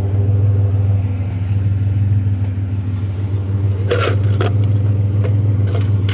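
Truck engine idling steadily with a low, even hum. A few light knocks sound over it, the loudest about four seconds in.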